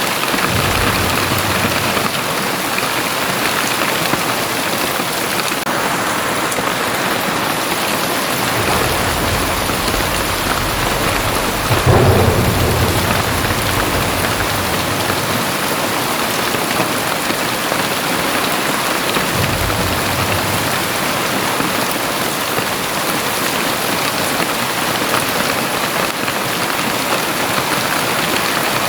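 Very heavy rain pouring down in a steady, dense hiss. Thunder rumbles low beneath it, with a sudden louder clap about twelve seconds in that rumbles on for a few seconds, and another low rumble later.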